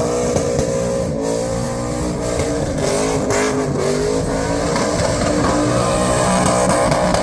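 Car engine running at high revs, its pitch dipping around the middle and then climbing again.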